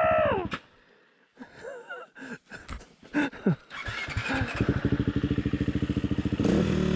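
Dirt bike engine revving, then dropping away about half a second in. After a lull with a few scattered knocks, an engine idles with an even, pulsing beat from about four seconds, getting louder near the end.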